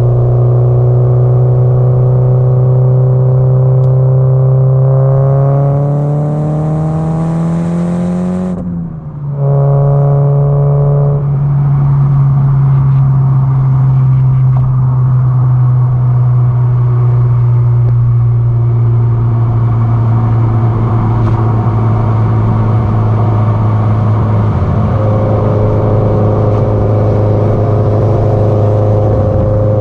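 Exhaust note of a Subaru Impreza WRX STI (GDB-E) with its turbocharged 2.0-litre flat-four, running at steady speed. About six seconds in the revs climb, with a rising hiss, then fall suddenly at a gear change, with a brief dip in loudness, before it settles back to steady cruising at lower revs.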